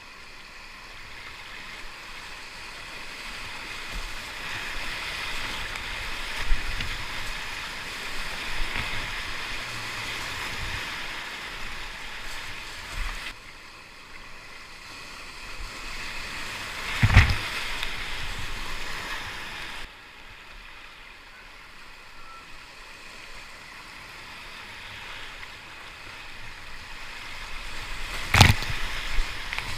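Whitewater rushing around a kayak running a river rapid, with paddle splashes. The rush drops suddenly twice, and two sharp knocks stand out, one about halfway through and one near the end.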